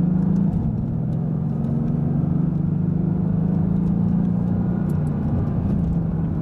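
Mercedes-AMG GT S's twin-turbo V8 running at a steady speed, heard from inside the cabin over tyre and road rumble, its note easing slightly lower about halfway through.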